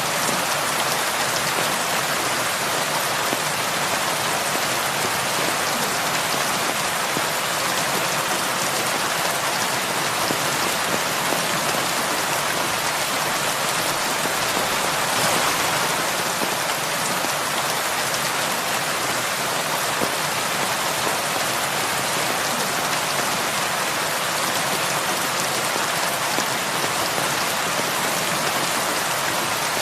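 Heavy rain falling steadily on a cabin roof, an even rushing patter with a brief slight swell about halfway through.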